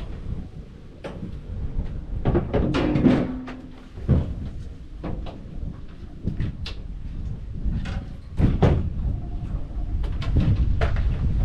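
A series of irregular knocks and clunks, with a brief squeak about three seconds in, over a steady low rumble.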